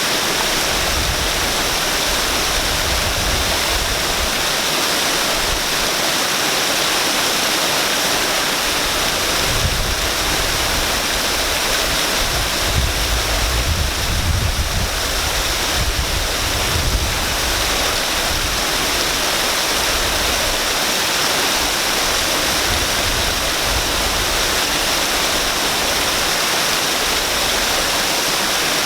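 Waterfall, water pouring and splashing in a steady, even rush. A low rumble swells under it for several seconds in the middle.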